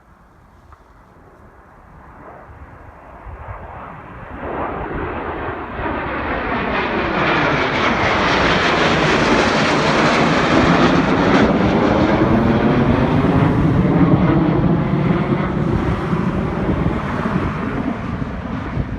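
A twin-engined military jet passing by. Its engine noise builds over several seconds to a loud peak with a sweeping, phasing tone, then eases slightly near the end.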